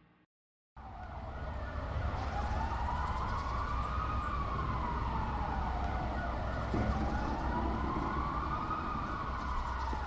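Emergency siren wailing, its pitch slowly rising and falling twice, over a steady low rumble.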